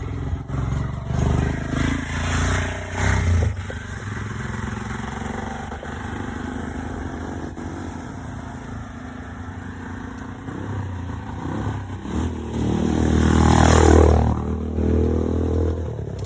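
Small motorcycle engine running, with uneven louder surges in the first few seconds; a motorbike then passes close, its engine loudest about fourteen seconds in.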